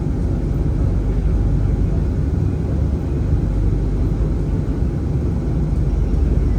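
Steady low rumble of a tram running, heard from on board.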